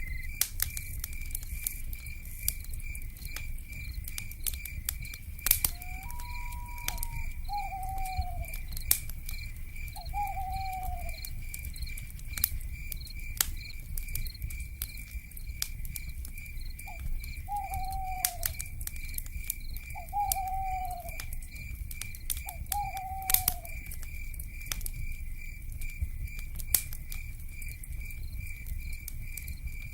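Wood fire crackling with frequent sharp pops over a low rumble, an insect trilling in a fast, even pulse throughout, and an owl giving one level call and then five short calls, each falling in pitch, a few seconds apart.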